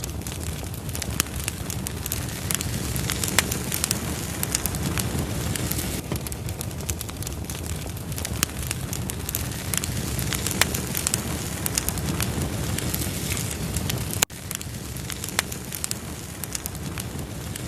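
Wood fire burning in a fireplace: irregular sharp crackles and pops of the logs over a steady low rush of the flames. The sound briefly cuts out about fourteen seconds in.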